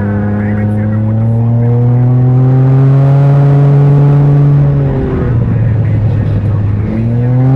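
Can-Am Ryker three-wheeler's engine pulling under way, its pitch climbing slowly for about five seconds, then dropping, and rising and falling again briefly near the end.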